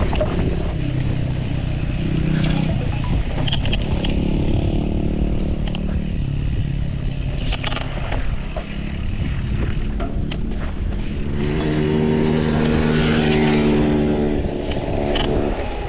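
A motor vehicle's engine running and passing, loudest a little past the middle to near the end, over a steady low wind rumble on the microphone.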